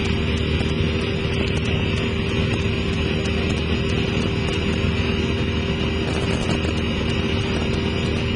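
Cessna 172SP Skyhawk's four-cylinder Lycoming engine and propeller droning steadily in flight, a constant hum that holds the same pitch and level throughout.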